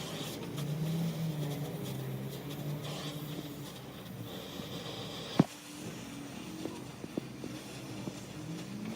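A low engine hum that wavers in pitch, with one sharp knock about halfway through and a few lighter ticks after it.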